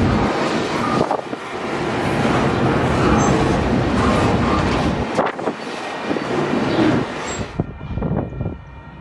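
Double-stack intermodal freight train rolling past close by: loud, steady wheel-and-rail noise from the container well cars, with an occasional sharp knock. The noise cuts off abruptly near the end, leaving a much quieter background with faint steady tones.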